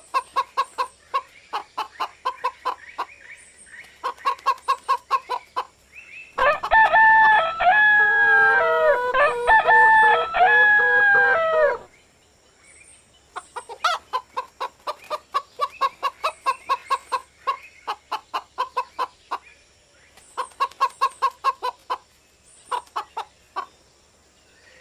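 Chickens clucking in quick runs of short notes, with a rooster crowing loudly in long, overlapping calls for about five seconds near the middle.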